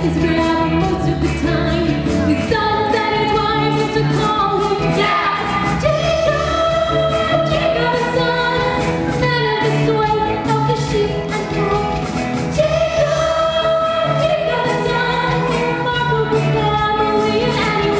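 An ensemble of voices singing a musical-theatre number together over a band accompaniment with a steady beat, holding long notes.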